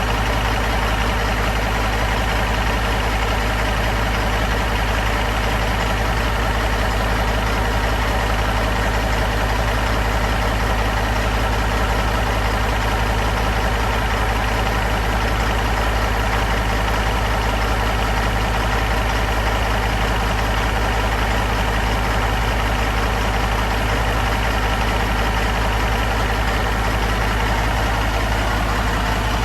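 Caterpillar C18 inline-six diesel engine idling steadily while it warms up.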